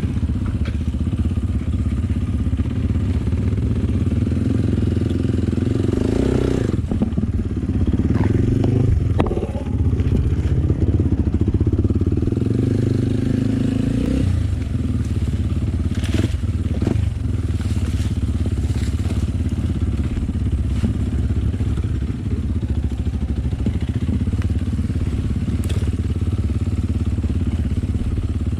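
Enduro motorcycle engine running steadily while riding a rough trail, rising in pitch a couple of times, with scattered clattering knocks from the bike over the ground.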